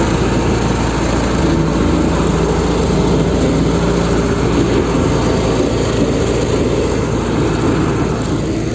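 Engine running steadily at an even speed, a loud low hum without changes.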